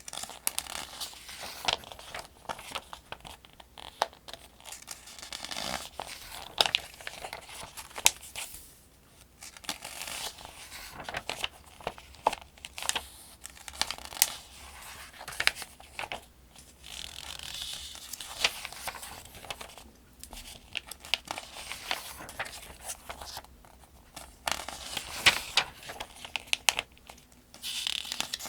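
Paper pages of the 2025 Farmers' Almanac being turned one after another, rustling and crinkling with crisp snaps as each page flips. Short pauses fall between the turns.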